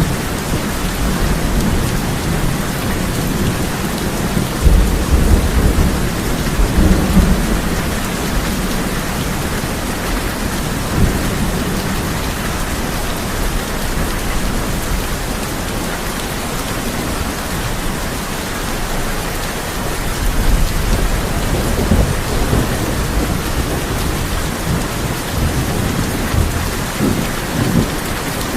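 Heavy rain falling on a tin roof as a steady hiss, with low thunder rumbling about five seconds in and again a little past the middle.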